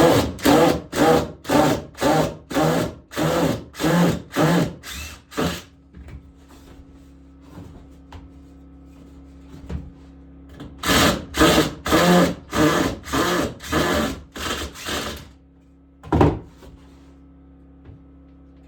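Hand tool working wood in rhythmic back-and-forth strokes, about two a second: a run of about eleven strokes, a pause of several seconds, then about eight more and one last single stroke.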